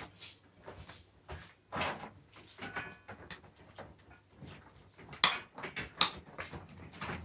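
A dog chewing on a chew: irregular crunching and clicking of teeth, with two sharper cracks about five and six seconds in.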